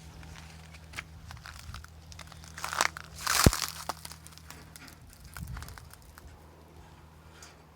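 Handling noise: rustling, light clicks and rubbing, with a louder rasping scrape and a sharp knock about three and a half seconds in, over a faint steady low hum.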